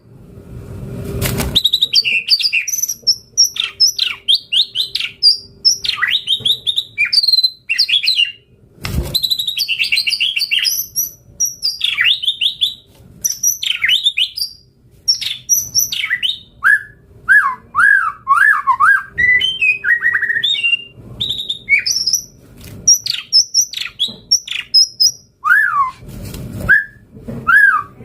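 White-rumped shama (murai batu) singing continuously in rapid, varied phrases of whistles and trills, with a run of lower, looping whistles in the middle. Brief noises break in at the very start, about a third of the way in, and near the end.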